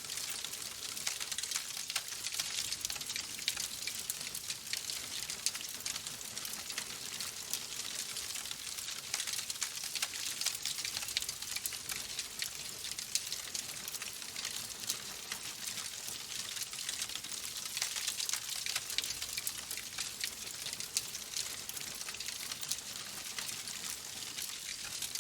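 Logs burning in a fireplace, crackling steadily with a dense run of small pops over a soft hiss.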